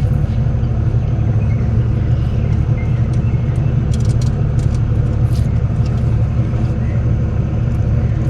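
An engine running at a steady idle, an even low rumble, with a few light clicks and taps of parts being handled.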